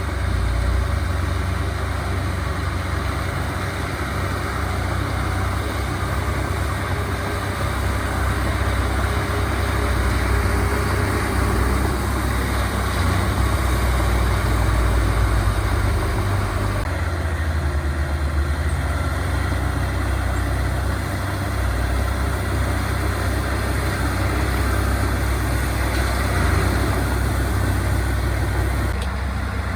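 Heavy diesel earthmoving machinery running steadily on a job site: a continuous low engine rumble with some grinding and clatter above it. About halfway through, the higher-pitched noise drops away while the engine rumble carries on.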